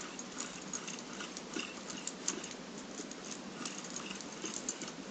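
Small model steam engine and propeller drive running: a steady hiss with many irregular light clicks and ticks.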